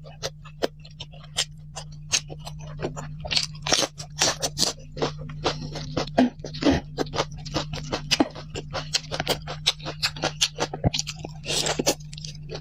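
Close-miked eating: a person crunching and chewing food fast, a dense run of irregular crisp crackles.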